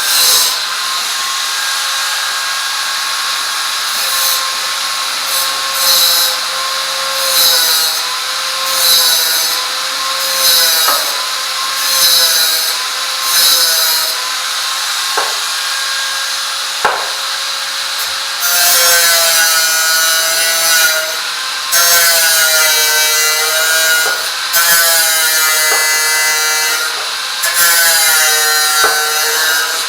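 A power tool running under load, its motor pitch dipping and recovering as it bears into the work, with rhythmic scraping strokes about every second and a half; about two thirds of the way in it gets louder and its pitch swings more.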